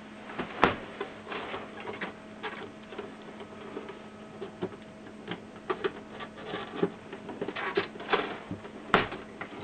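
Hands handling ink supply tubing and plastic parts inside an opened Canon inkjet printer: irregular plastic clicks, taps and rustling, with two sharper clicks about half a second in and near the end. A steady mains hum runs underneath.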